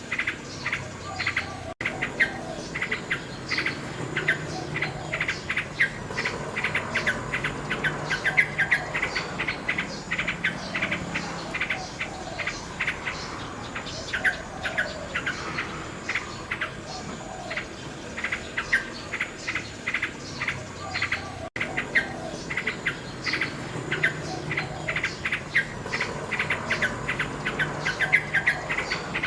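Nightingale singing: fast runs of rapidly repeated clicking and whistled notes, high-pitched and continuous. The sound drops out for an instant twice.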